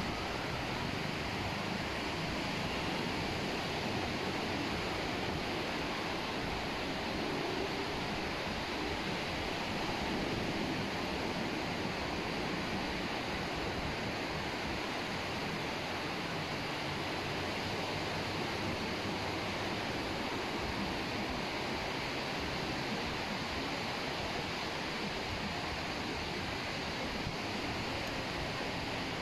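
Ocean surf washing steadily onto a beach, an even rushing noise with no distinct events.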